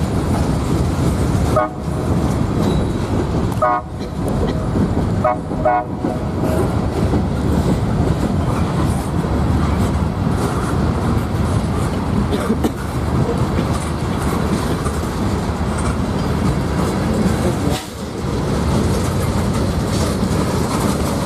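CSAO freight train rolling past: a steady loud rumble of railcar wheels on the rails, with a few short high tones in the first six seconds.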